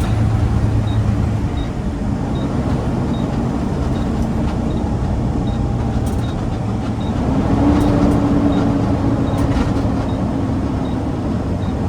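Heavy garbage truck driving, its engine and road noise a steady rumble. The engine tone rises to a higher pitch about seven and a half seconds in, with a faint high tick repeating about every three-quarters of a second.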